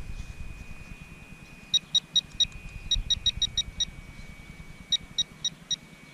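Teknetics Tek-Point pulse induction pinpointer beeping as it is swept over a buried target: short high beeps of one pitch in uneven clusters of four or five, starting about two seconds in.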